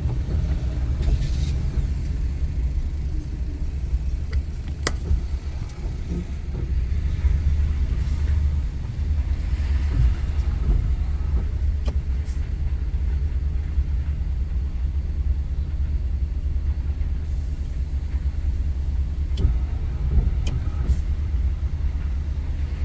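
Typhoon wind gusting against the microphone, a steady low rumble with a few scattered clicks.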